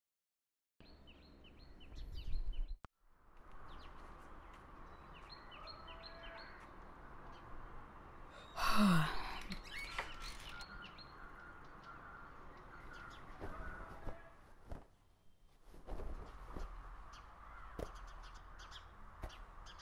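Quiet ambience of small birds chirping in short repeated calls, with a crow cawing. There is a louder harsh call about nine seconds in, and a few light clicks later on.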